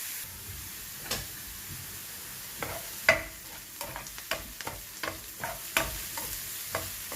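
Chopped onion and garlic sizzling in oil in a frying pan, with a cooking utensil clicking and knocking against the pan as they are stirred. The clicks come irregularly, the loudest about three seconds in.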